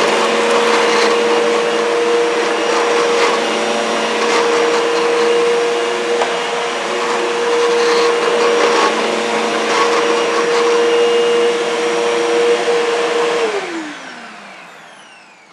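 Bissell bagless upright vacuum running with its power head on bare floor, a steady motor whine with scattered ticks as it picks up debris. About 13 seconds in it is switched off and the whine falls in pitch as the motor spins down.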